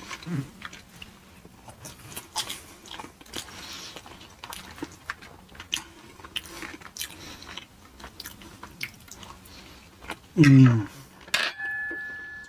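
Close-miked chewing of cheese fries: wet mouth sounds with small crunches and clicks, and a hummed 'mm' near the end. A faint steady tone starts about a second after the hum.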